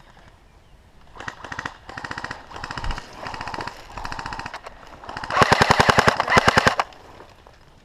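Airsoft guns firing full-auto in several rapid bursts, starting about a second in; the last burst, about a second and a half long near the end, is the loudest.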